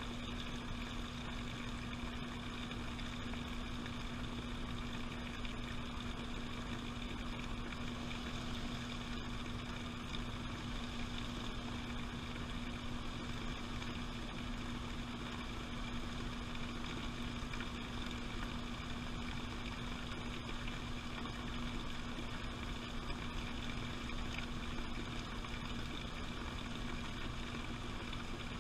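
Washing machine running, heard from inside the drum: a steady motor hum with a constant rushing noise over it.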